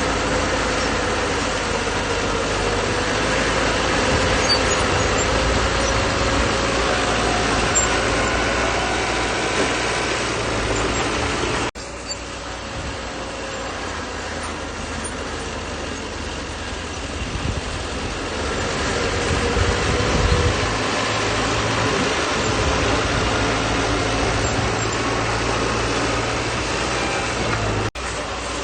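Bulldozer's diesel engine running steadily, with a continuous mechanical drone that breaks off abruptly and resumes about twelve seconds in and again near the end.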